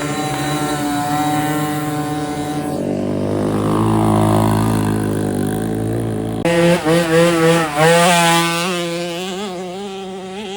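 Dirt bike engines running: a steady engine note for the first few seconds, then a lower, steadier drone, and from about six and a half seconds in an engine revving up and down over and over as the throttle is worked.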